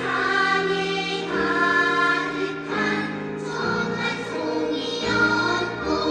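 Children's choir singing held chords, the harmony shifting about every second, over a low instrumental accompaniment.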